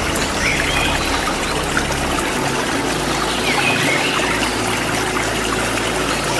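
Waterfall rushing steadily, with a few short bird chirps over it.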